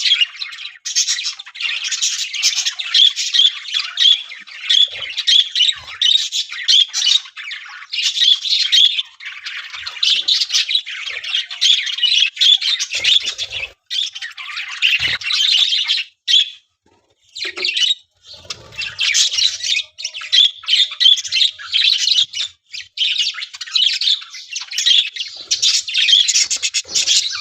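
Pet Australian parrot chattering and squawking almost without pause in a rapid, high-pitched warble, breaking off for about a second roughly two-thirds of the way through.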